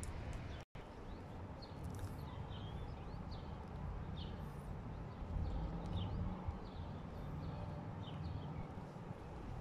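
Outdoor ambience: a steady low rumble with small birds giving short, falling chirps every second or so. The sound drops out completely for a moment about a second in.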